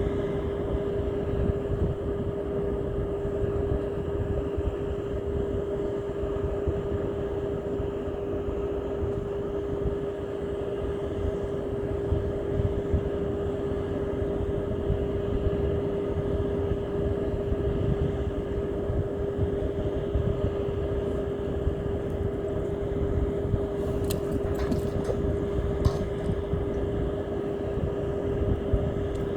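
An engine running steadily: a constant hum over a low rumble, holding the same pitch throughout. A few faint clicks come near the end.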